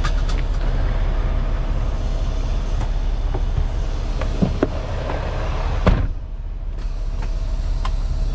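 Semi-truck running: a steady low rumble with scattered rattles and clicks, and a sharper knock about six seconds in.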